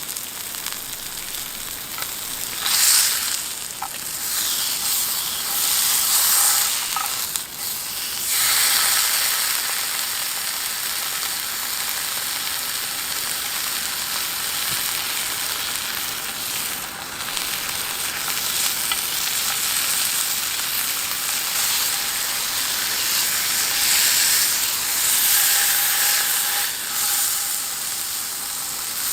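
Beef searing in a hot pan: a steady sizzle that swells louder several times.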